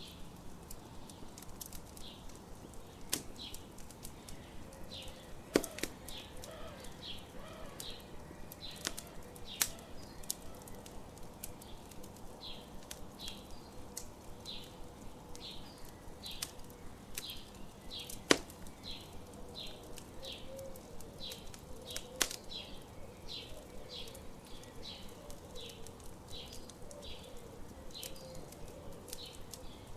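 Campfire wood crackling and popping, with a few sharp, loud pops, over a bird repeating short high chirps about two a second.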